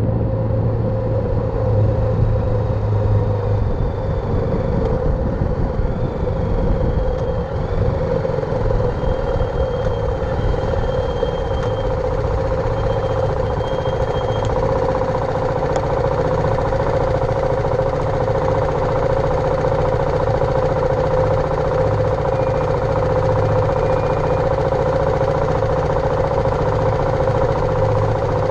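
BMW G310R motorcycle's single-cylinder engine running steadily at an even pitch.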